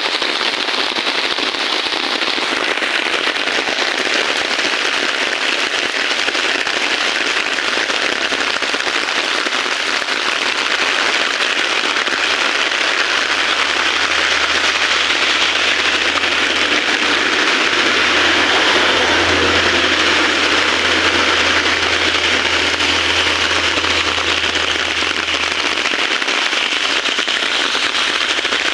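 Heavy rain falling steadily, a dense even hiss of drops, with a faint low hum underneath through the middle part.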